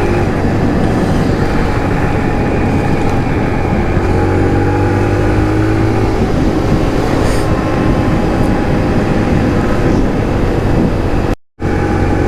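Kawasaki KLX140 pit bike's small single-cylinder four-stroke engine running steadily under way, with wind noise over it. The engine pitch shifts briefly around the middle, and the sound cuts out for a split second near the end.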